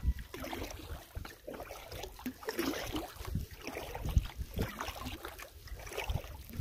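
Canoe being paddled: a paddle dipping and pulling through the water and water lapping against the hull, heard as irregular low knocks and splashes.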